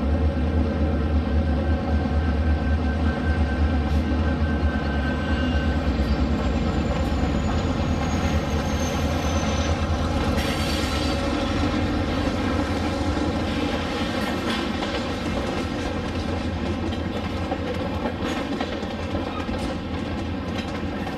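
Diesel-hauled freight train running, with a steady low engine drone and the clickety-clack of wheels on rail joints.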